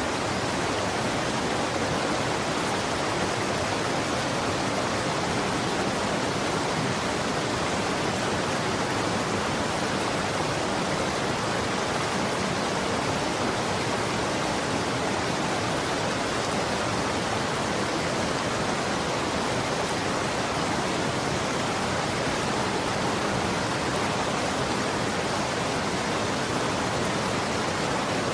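Running water flowing steadily: an even, unbroken hiss of water with no distinct splashes or changes.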